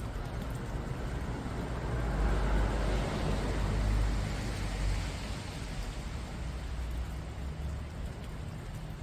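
Rain falling steadily on foliage, a continuous hiss that grows louder for about three seconds in the middle, with a steady low rumble underneath.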